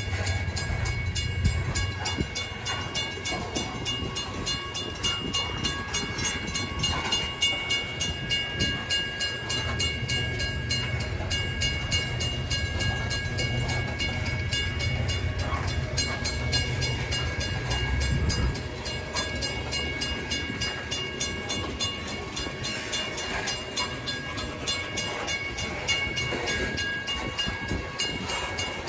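Freight train's cars rolling past: a steady low rumble with fast, evenly spaced clicking from the wheels and a few steady high ringing tones.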